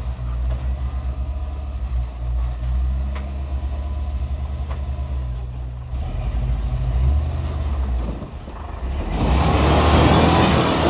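Off-road vehicle engine running low and steady at crawling speed. About nine seconds in, a loud rushing noise lasting a second or two rises over it, then fades.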